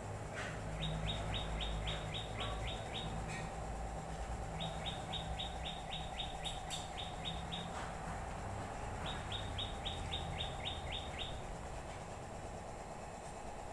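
A bird calling in three rapid series of short, evenly spaced chirps, about seven or eight a second, each series lasting one and a half to two seconds, over a steady low hum.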